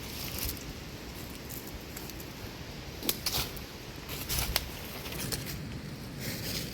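Footsteps rustling and crunching through leaf litter, a few irregular crackles about three and four and a half seconds in, over a steady rush of wind.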